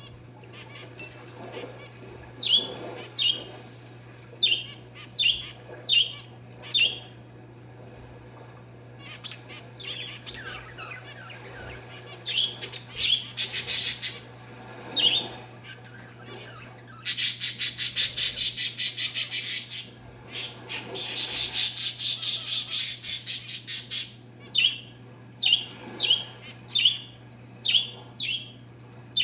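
Pet parakeets and zebra finches calling: a string of short, sharp chirps, then two long, high, rapid-fire chattering runs of a few seconds each about halfway through, then more short chirps.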